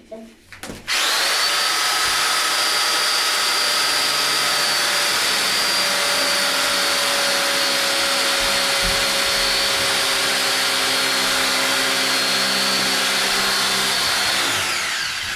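An electric drill with a mixing paddle stirs a thick construction mix that has just had a little water added. It starts suddenly about a second in, runs steadily at full speed with a high whine, and winds down with falling pitch near the end.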